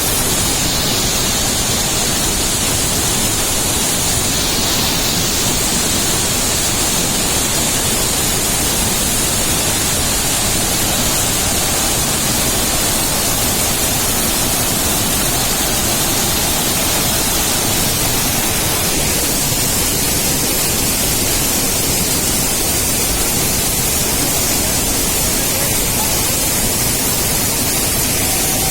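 Waterfall's water rushing in a loud, steady, even roar.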